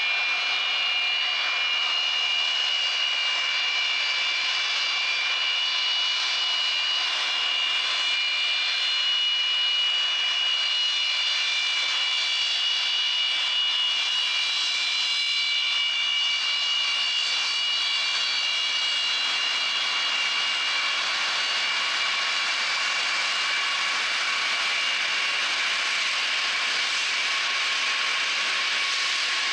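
Antonov An-124's turbofan jet engines running with a steady, high-pitched whine made of several tones over a rushing noise.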